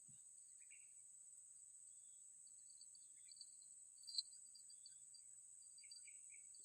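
Faint, steady high-pitched drone of crickets with lighter chirping over it, and one brief click about four seconds in.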